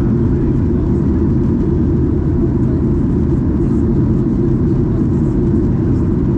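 Steady low roar of a Boeing 737-800 airliner cabin in flight: engine and airflow noise heard from a passenger seat, with a faint steady whine above it.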